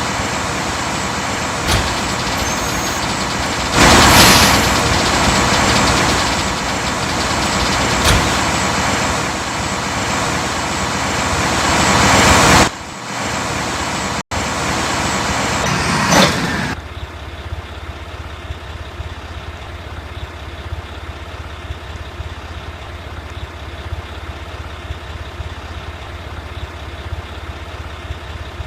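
Mack rear-loader garbage truck's diesel engine running hard with a loud burst about four seconds in, its level swelling until it cuts off sharply; after a few more loud moments it settles to a steady low idle for the last ten seconds or so.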